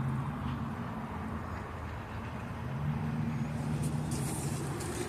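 A motor vehicle engine running somewhere close by, a steady low hum that fades for a moment and comes back strong about three seconds in.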